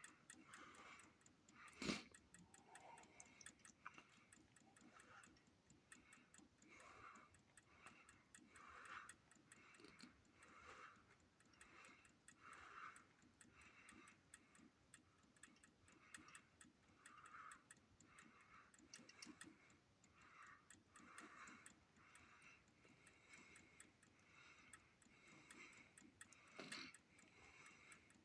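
Faint, regular ticking about once a second, with one sharper, louder click about two seconds in.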